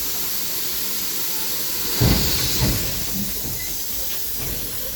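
Steady hiss of steam in the cab of the GR-280, a German-built narrow-gauge steam locomotive, as it moves off. A loud low burst comes about two seconds in, with a smaller one a moment later.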